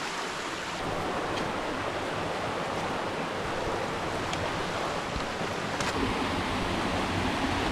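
A stream rushing over rocks close by: a steady, even wash of water noise, a little louder about a second in and again near six seconds, with a few faint ticks over it.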